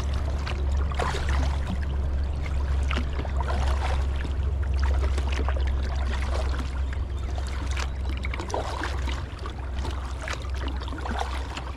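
Water splashing and trickling around a kayak's hull in a strong river current, with scattered small splashes over a steady low rumble.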